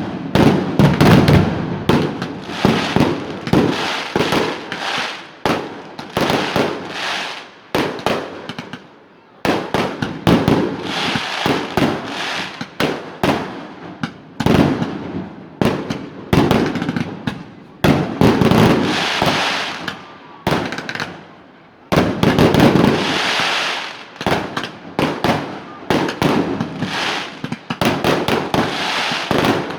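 Fireworks display: shells bursting in quick succession with sharp cracks, booms and crackling. The barrage pauses briefly twice, about nine and twenty-one seconds in, then resumes.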